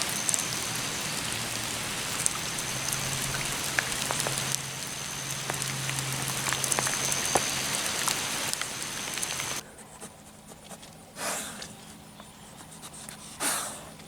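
Steady rain falling, an even hiss with scattered drop ticks. It cuts off suddenly about nine and a half seconds in, leaving a much quieter stretch with two brief rustling swells.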